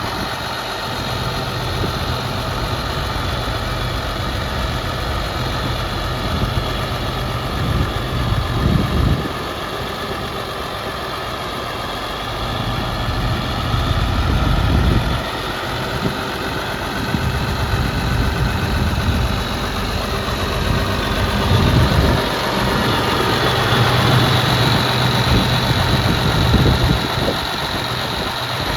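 1996 Case IH 9350 four-wheel-drive tractor's diesel engine running at idle, swelling louder briefly several times.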